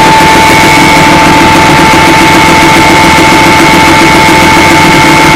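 IZh-350 motorcycle's single-cylinder two-stroke engine running during break-in. It is recorded so loud that it is a dense, harsh noise, with a steady high whine on top.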